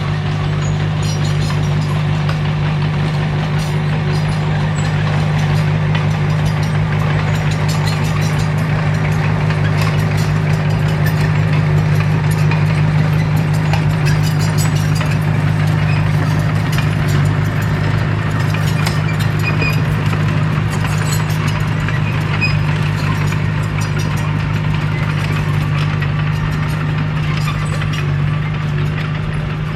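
Diesel engine of a Komatsu D21P bulldozer running steadily, a deep even drone with light scattered clicks over it.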